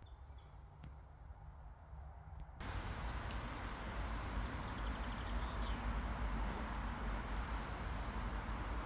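Outdoor ambience with small birds chirping faintly. About two and a half seconds in, it cuts abruptly to a louder, steady rushing noise, heaviest in the low end, with a few more faint chirps.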